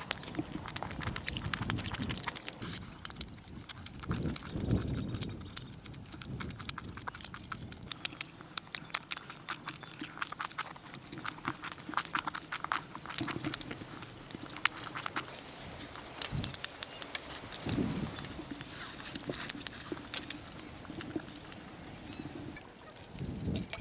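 Close-up eating sounds: chewing and mouth clicks of people biting grilled meat off bamboo skewers, with many irregular sharp clicks and a few soft thumps.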